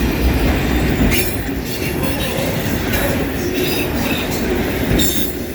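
Loaded autorack freight cars rolling past at close range: a steady rumble of steel wheels on rail with clatter over the track, and a few brief, thin wheel squeals.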